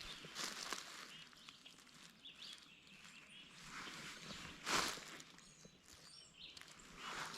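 A few soft rustling steps in dry leaf litter, the loudest a little past the middle, with faint songbird chirps behind them.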